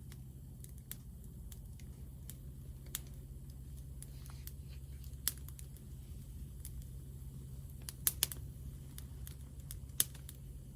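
Wood fire crackling: scattered sharp pops and ticks at irregular intervals, the loudest a quick pair of pops near the end, over a steady low hum.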